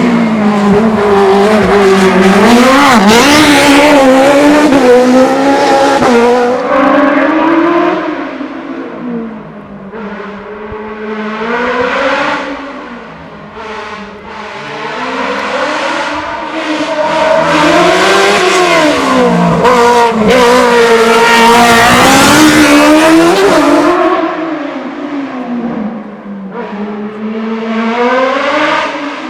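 Racing car engine at full throttle, its pitch repeatedly climbing and dropping as the driver accelerates, shifts and brakes. It is loudest for the first several seconds and again about two-thirds of the way through, and quieter in between as the car moves farther off.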